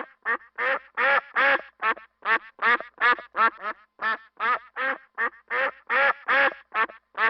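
Duck quacking in a rapid, unbroken run of calls, about three a second.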